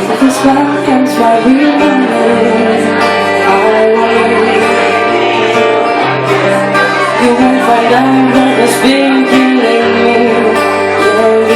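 Live acoustic band music: guitar and violin with a woman singing.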